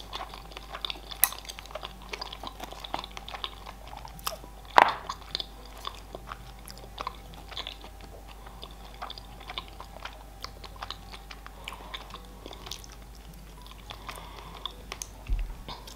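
Close-miked chewing of sushi rolls: soft wet mouth clicks and smacks throughout, with one sharper click about five seconds in.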